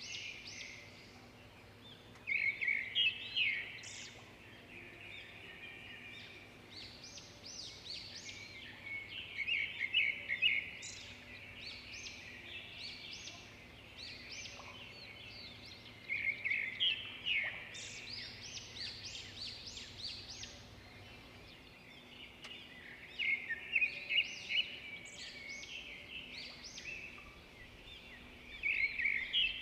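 Small bird singing: a burst of rapid, high chirps about every six to seven seconds, over a faint steady background.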